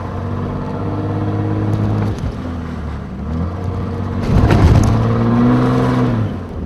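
Chase vehicle's engine running under way, its steady hum breaking and picking up again about two and three seconds in as it pulls through the gears. A loud rushing noise swells over it about four seconds in.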